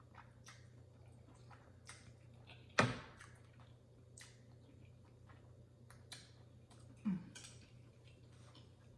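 Close-up chewing of noodles and steak: scattered wet mouth clicks and smacks over a faint low hum, with one sharp knock about three seconds in and a smaller one about seven seconds in.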